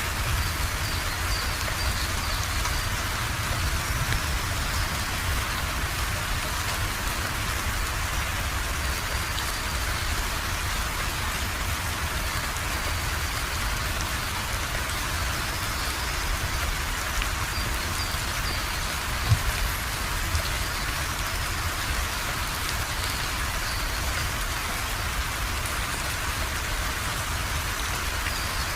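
Steady rain falling and pattering on surfaces. There is one sharp tap about two-thirds of the way through.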